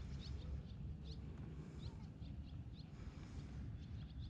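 Small birds chirping, short high chirps several times a second, over a steady low rumble.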